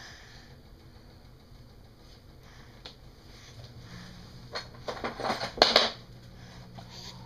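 Washing machine running with a steady low hum. Around two-thirds of the way through come a few short, sputtering bursts, the loudest near the end.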